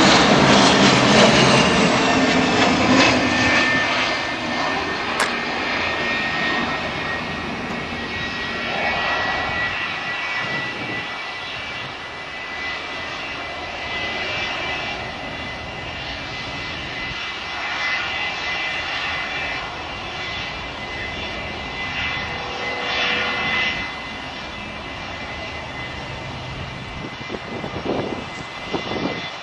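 Twin turbofan engines of a Cessna 525 CitationJet running, with a steady high whine over a rushing noise. It is loud at first and fades over the first several seconds, then holds at a lower level.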